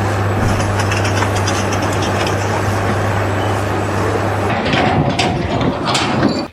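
A heavy engine running steadily with a constant low hum and rough noise over it, then a few sharp knocks in the last two seconds.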